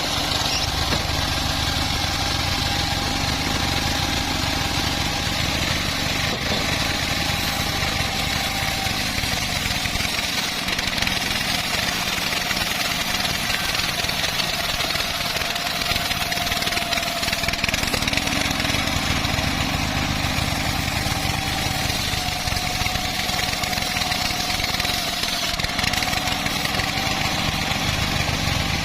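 Engine-driven homemade bandsaw sawmill running steadily while sawing a large teak log, with a thin whine that wavers slightly in pitch.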